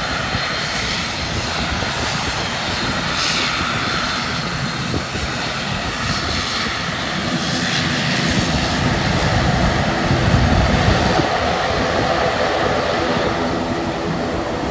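Uni Air ATR 72-600 turboprop taking off: its twin Pratt & Whitney PW127M engines and propellers make a steady, loud drone mixed with rushing noise. The sound swells a little and grows deeper around ten seconds in.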